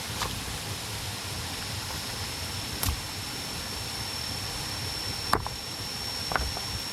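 Steady outdoor hiss with a thin, high, steady tone running through it, broken by four short sharp clicks or snaps a second or two apart.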